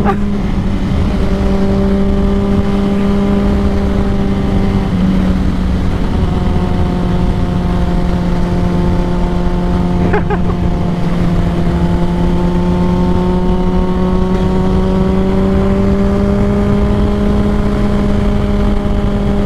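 Motorcycle inline-four engine, a Honda CBR600RR through a Two Brothers full exhaust, running at a steady cruise with wind rushing past. Its pitch drops slightly about five seconds in, then climbs gradually toward the end as the bike speeds up.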